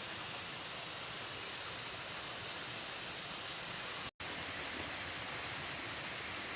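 Steady, even hiss of ambient noise with a thin, steady high whine held over it; the sound cuts out for an instant about four seconds in.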